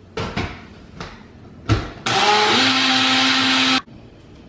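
A few knocks and a sharp clunk as the cup of a small personal blender is handled on its base. Then the blender motor runs for under two seconds, blending a protein smoothie with ice. It picks up speed briefly and then cuts off suddenly.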